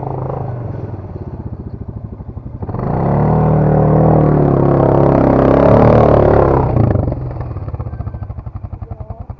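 Dirt bike engine idling with an even pulsing beat, revved up loudly for about four seconds from about three seconds in, then dropping back to idle.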